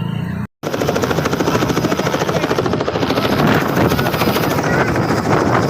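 Helicopter running close by, loud, its rotor blades beating in a fast, even chop. The sound drops out completely for a split second about half a second in, then returns at full strength.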